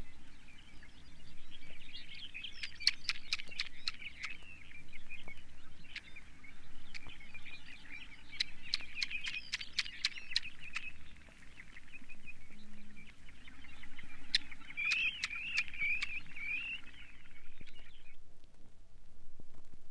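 Dunlin calling: a run of short, wavering trills and chatter, with a rippling phrase near the end, stopping about two seconds before the end. Vinyl record crackle and pops throughout.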